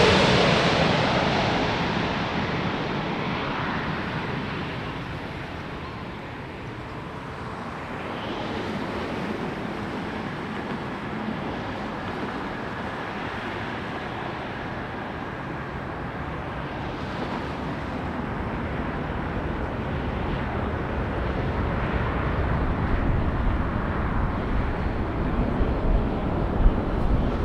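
Jet noise of a Boeing 777-300ER's twin GE90 engines dying away over the first few seconds after the airliner passes low overhead on approach. It leaves a steady low rumble and hiss with wind on the microphone.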